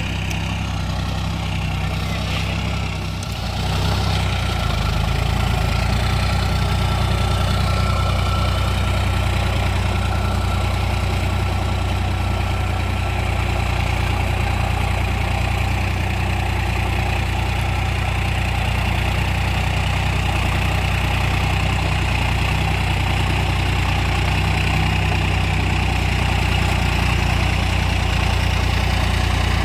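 Sonalika tractor's diesel engine running steadily. About three seconds in it dips briefly, then comes back louder and holds there.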